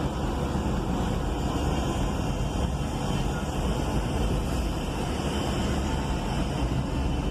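Steady engine and road noise of a diesel vehicle driving in city traffic, heard from inside the cab.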